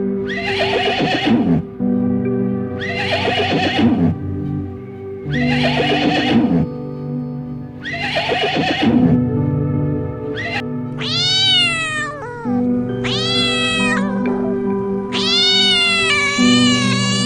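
Horse neighing four times, each call about a second long, falling in pitch and about two and a half seconds apart, then a cat meowing four or five times in the second half, over steady background music.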